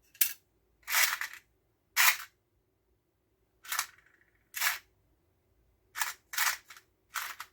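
A hand tool working on electrical wire gives sharp, short snips and clicks, about eight of them at uneven intervals.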